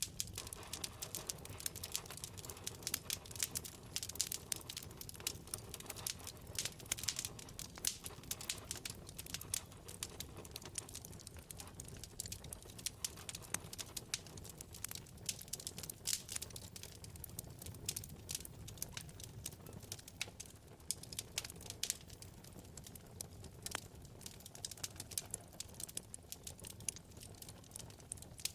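Wood fire burning in a fireplace: dense, irregular crackling and popping of the burning logs over a steady low rumble of the flames.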